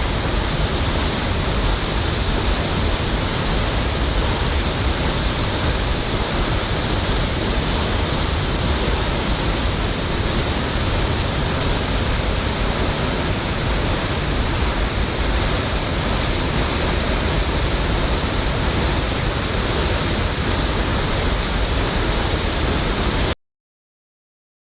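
Steady, loud rush of falling water, as from a waterfall, cutting off abruptly near the end.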